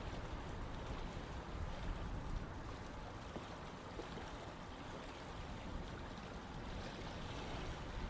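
Running water of a stream flowing steadily: a continuous rush with a deep low rumble underneath.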